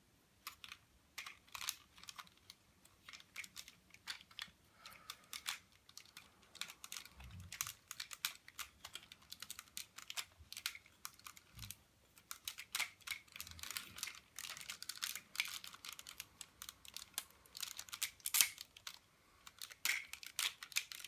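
Plastic parts of a Hasbro Transformers Optimus Prime figure being handled and shifted, clicking and clacking in quick irregular runs, with a couple of dull knocks.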